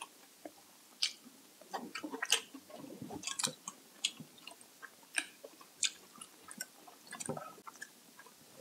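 People eating close to the microphone: irregular chewing and lip smacks with sharp little clicks, coming every half second or so with short pauses.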